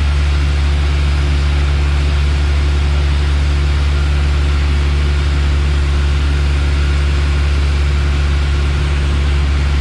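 Piper Warrior's four-cylinder Lycoming engine and propeller heard inside the cabin: a loud, steady, unchanging drone with a deep low hum and a hiss above it.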